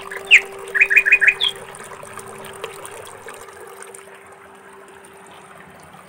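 Small bird chirping: one quick downward call, then a fast run of four short chirps and a single higher note, over a soft steady hiss and a low steady hum.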